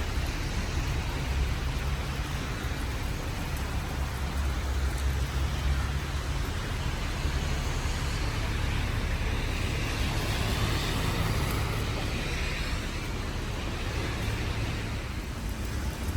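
Steady outdoor noise of road traffic mixed with falling rain, with a constant low rumble underneath.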